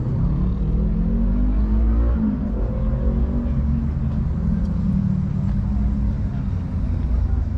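Car engine revving, its pitch climbing twice over the first few seconds and then settling to a steady run, over a deep low rumble.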